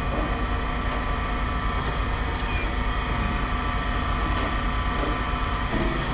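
A steady mechanical drone holding a hum of several steady tones, with a few faint clicks and knocks over it.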